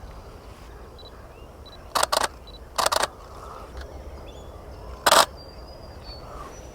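Canon EOS-1D X Mark II DSLR shutter firing three short bursts of rapid clicks, about two seconds in, a second later, and again near five seconds.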